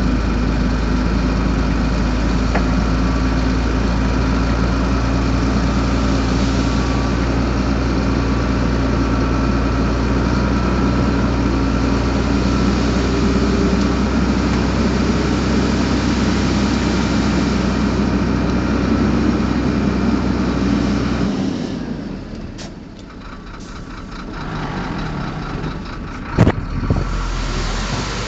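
Heavy diesel engine of earthmoving machinery running steadily with a deep rumble, then dropping suddenly to a quieter engine sound about three quarters of the way through. A single sharp knock comes near the end.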